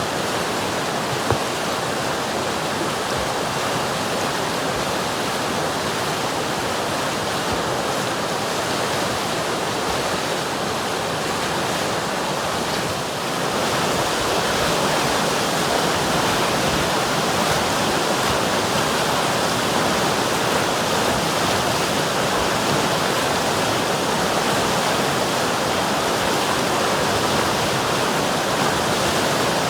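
River water flowing with a steady rushing sound, growing a little louder about halfway through.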